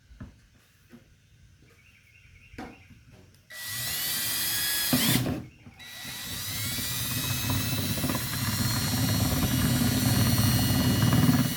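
Power drill boring a hole in a plastic bucket, widening it to take a tapered poultry waterer nipple. After a few light handling clicks the drill spins up with a rising whine, runs about two seconds, stops briefly, then starts again and runs steadily.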